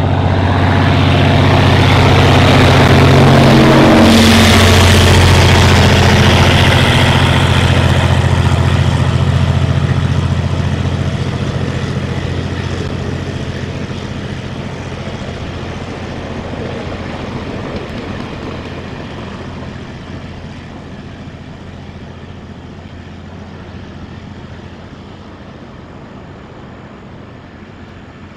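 Freight train hauled by two diesel-electric locomotives passing close by, the engines' low drone loudest about four seconds in. The train's sound then fades steadily as it runs away along the line.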